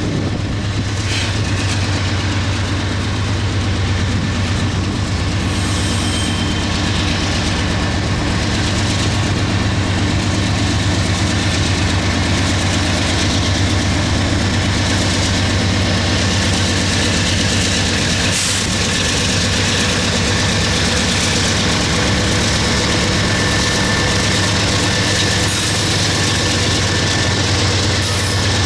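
Eastbound Union Pacific freight train passing: a steady, loud rumble of diesel locomotive engines and railcars rolling over the rails.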